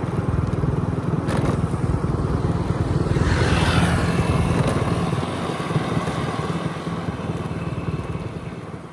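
MotoGP race motorcycles running at speed on the circuit, one bike passing with a falling pitch about three to four seconds in; the sound then grows gradually quieter.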